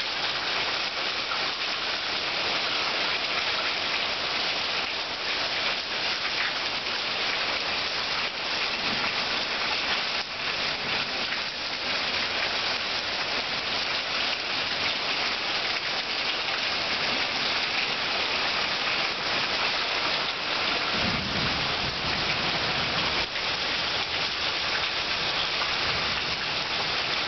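Steady, heavy rain from a tropical storm's approaching bands, pouring down and splashing on surfaces with an even hiss.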